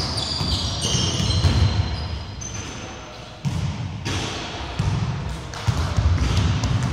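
Basketball being dribbled and bounced on a wooden indoor court, with several sharp bounces in the second half, short high sneaker squeaks near the start, and players' indistinct voices.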